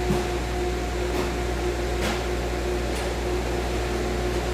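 Steady machine hum with a constant mid-pitched tone and a few faint ticks.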